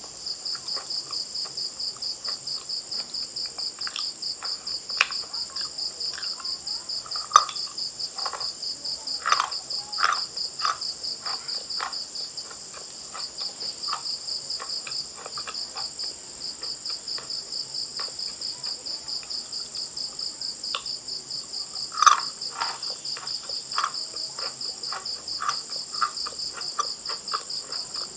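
Close-miked crunching and chewing of hard, chalky food in bursts, loudest about a third of the way in and again about three quarters through. Under it, a steady fast chirping of crickets or other insects, with a brief pause before the middle.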